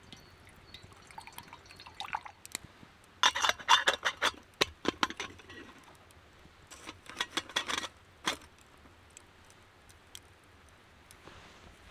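Rapid clinks and knocks of small hard objects being handled, in two bursts of clatter: one about three seconds in, a second about seven seconds in, with a few single ticks between.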